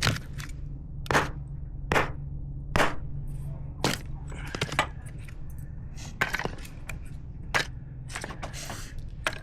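A run of sharp knocks, roughly one a second and somewhat uneven, over a steady low hum.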